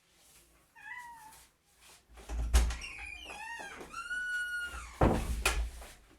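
A cat meowing several times, the calls rising and falling in pitch, with one longer, steadier meow. There are two loud thumps, one about two and a half seconds in and one about five seconds in.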